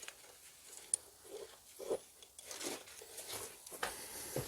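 Faint scraping, rustling and light taps of bricks and tools being handled during masonry work, with one sharp tick about a second in.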